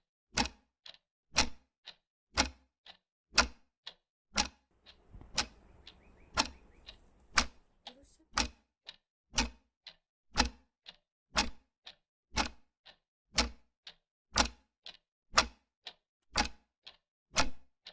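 Clock ticking sound effect: a sharp tick once a second with a softer tock halfway between, steady throughout. It is an effect for someone waiting, wondering or remembering.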